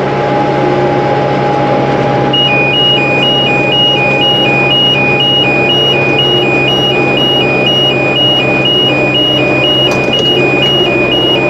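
Tractor engine running steadily, heard from inside the cab. About two seconds in, an electronic two-tone alarm starts, alternating high and low about twice a second: the round baler's monitor sounding its alert.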